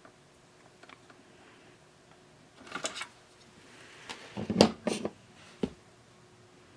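Light clicks and knocks of plastic radio-cassette parts being handled on the bench, with a brief murmured voice about four and a half seconds in.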